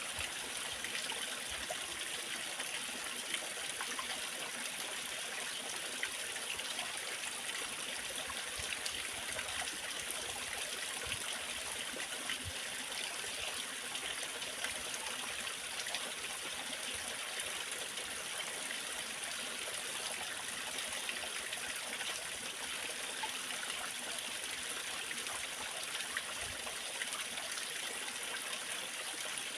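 Waterfall, water pouring and splashing in a steady, even rush.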